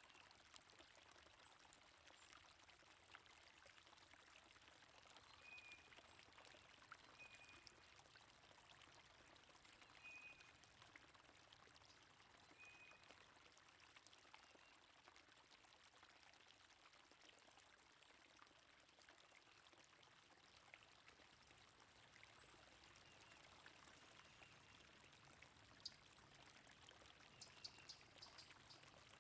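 Faint, steady flowing stream or brook, with a few short bird chirps over it.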